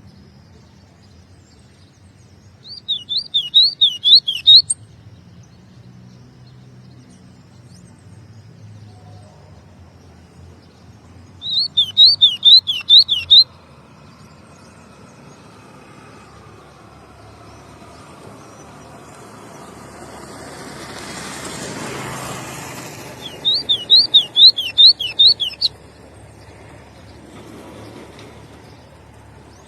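Golinha (white-throated seedeater) singing three short phrases, each a quick run of six to eight sharp, repeated high notes, with long pauses between them. Between the second and third phrase a broad noise swells and fades.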